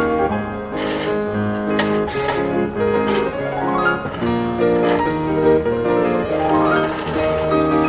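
Piano music: sustained chords with rising arpeggios sweeping upward twice.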